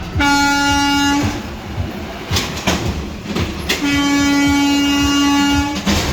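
Garbage truck's air horn blown twice: a short blast of about a second, then a longer blast of about two seconds, each one steady in pitch.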